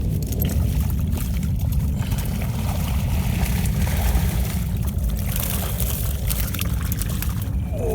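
Steady low wind rumble buffeting the microphone, with water splashing and trickling over it.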